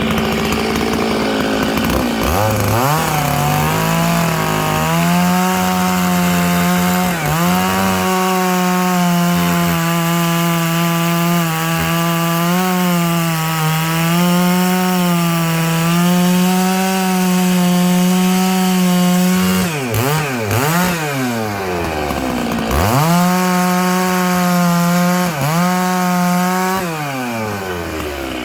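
Stihl MS 660 two-stroke chainsaw ripping lengthwise through dry larch logs. The engine climbs from idle to full throttle and holds there with small dips in pitch under the cut. Partway through it falls off and revs up twice, cuts again, then drops back to idle near the end.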